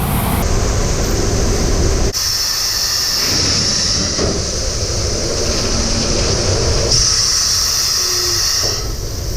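Hot blacktop dropping from an asphalt plant silo into a dump truck's bed: a heavy rumble with a steady hiss, changing abruptly a few times.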